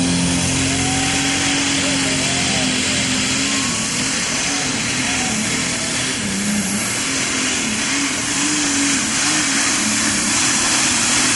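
Turbocharged diesel super stock pulling tractor engine at full power during a pull, a loud, steady, dense engine sound with a high turbo whine on top.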